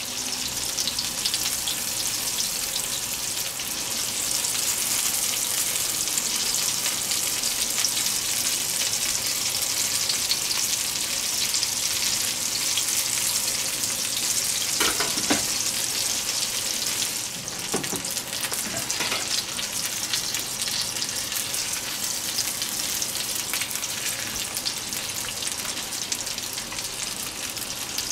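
Breaded fillet schnitzels frying in clarified butter in a pan: a steady sizzle.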